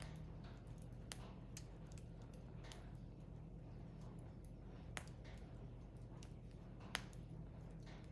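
Firewood burning: sparse sharp pops and crackles, the loudest about seven seconds in.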